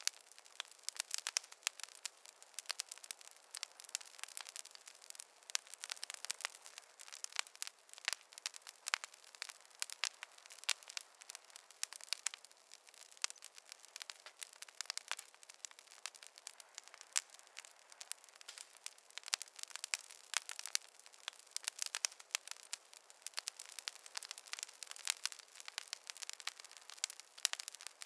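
Burning logs in a fireplace crackling: a dense, irregular stream of small sharp pops and snaps, with no low roar of flame beneath.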